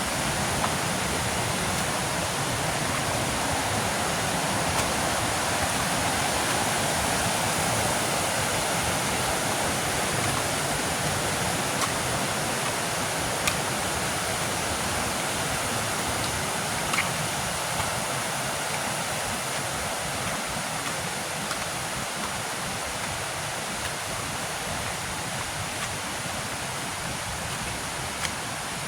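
Steady rush of water falling at a waterfall, growing slightly quieter toward the end.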